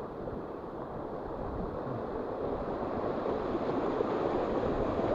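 Rushing water of the Dordogne river, a steady noisy wash that grows gradually louder.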